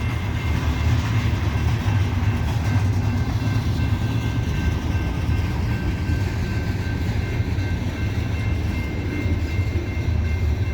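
Loaded coal hopper cars of a freight train rolling slowly past, a steady low rumble with a few faint, thin high tones held over it.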